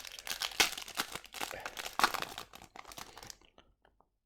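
A plastic trading-card pack wrapper crinkling and tearing as it is ripped open, a dense crackle that cuts off suddenly about three and a half seconds in.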